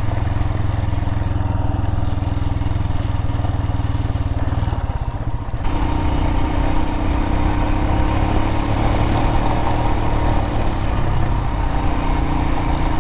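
Adventure motorcycle engine running steadily while riding a dirt road. Its note eases off briefly about five seconds in, then pulls again.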